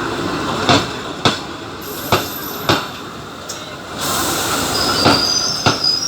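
MEMU electric multiple-unit train arriving and slowing, its wheels clacking over rail joints in pairs. About four seconds in, a high steady squeal of braking wheels sets in and the running noise grows louder.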